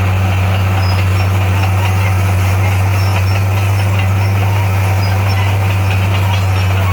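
Bulldozer diesel engine running steadily with a constant low hum.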